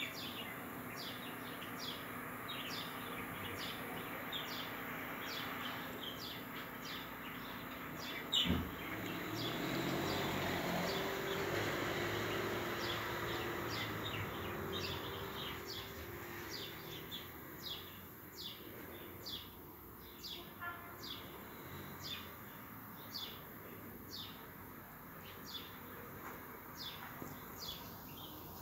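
A small bird chirping over and over, short high calls about one or two a second, over a steady outdoor background. There is a single thump about eight seconds in.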